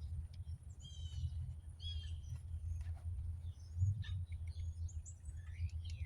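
Small birds chirping in short bursts of quick repeated notes, over a steady low rumble.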